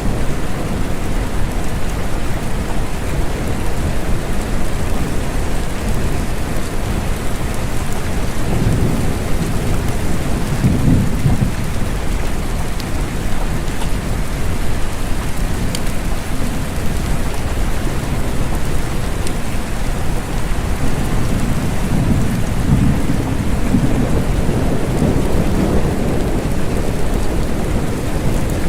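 Steady rain with low rolling thunder that swells twice, about a third of the way in and again past the middle.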